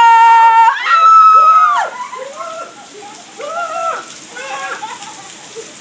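A young child shrieking in high, long, steady squeals, two loud ones in the first two seconds followed by shorter, quieter cries, over the steady hiss of falling rain.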